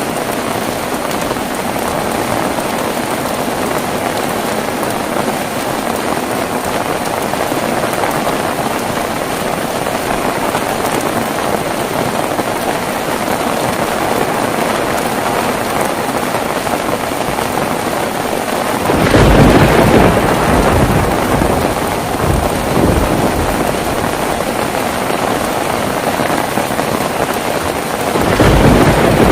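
Steady heavy rain, with a thunderclap about two-thirds of the way through that rumbles on for a few seconds, and another peal starting near the end.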